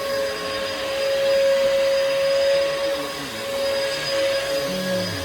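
Bissell vacuum cleaner running: a steady motor whine over a rushing air noise, its level gently swelling and easing.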